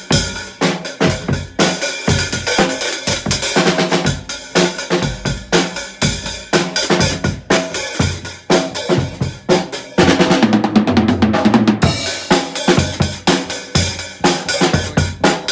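A drum kit being played hard, with rapid bass-drum and snare strikes and a fast roll about ten seconds in.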